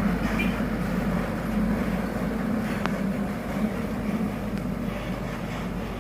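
Loaded Mitsubishi Canter truck's diesel engine running steadily with a low drone, heavy with a load of sugarcane, easing off slightly toward the end. A short click about halfway.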